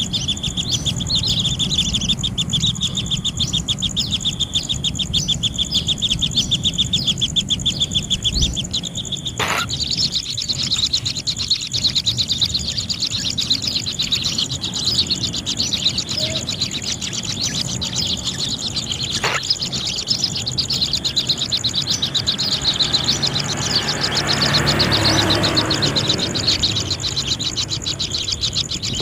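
Kingfisher nestlings chirping rapidly and continuously in the nest, many high chirps a second, over a steady high hiss. There are two sharp clicks, about nine and nineteen seconds in.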